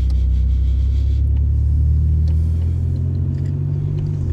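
Car engine and exhaust droning loudly at a steady, low pitch, heard from inside the moving car.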